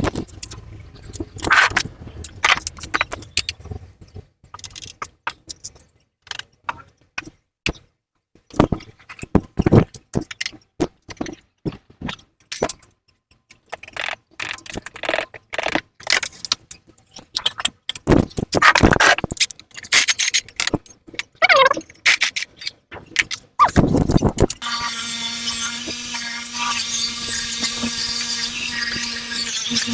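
Workshop metal work on a motorcycle exhaust mount: scattered clinks, scrapes and squeaks of metal parts and hand tools being handled. About five seconds from the end a power tool starts and runs steadily with a high whine.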